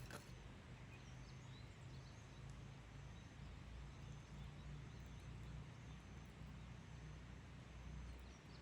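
Near silence: faint outdoor ambience with a low, steady rumble.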